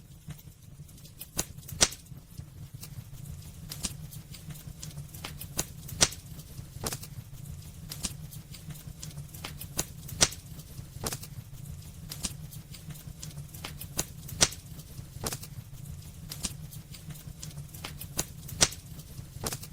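Wood fire crackling in a fireplace: irregular sharp crackles and snaps over a low steady rumble, with a few louder pops spaced several seconds apart.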